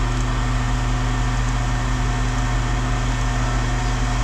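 Steady low machine hum with a constant droning pitch, unchanging in level.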